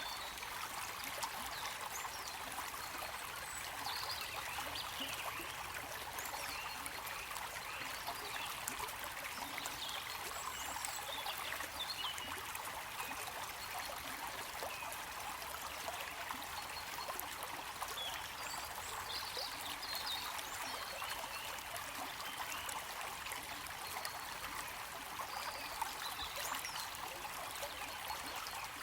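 Stream water flowing and trickling steadily, an even rushing hiss with small scattered splashes.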